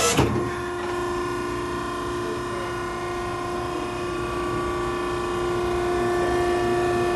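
Hydraulic power unit of a Maren cardboard baler running with a steady whine of several held tones, a little louder about five seconds in; a few sharp knocks at the very start.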